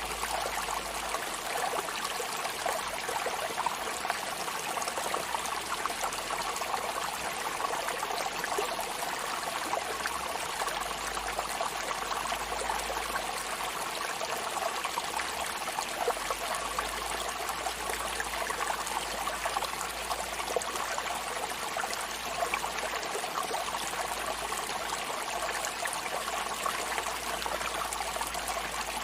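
Water running in a steady, even rush, with no rise and fall of separate waves.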